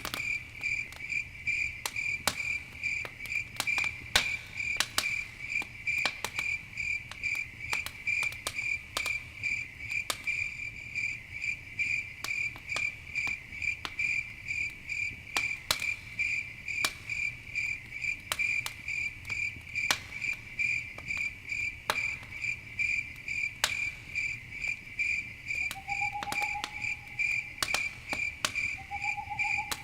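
Crickets chirping in a steady, even pulse, over the sharp irregular pops and crackle of a campfire burning. Two brief lower calls sound near the end.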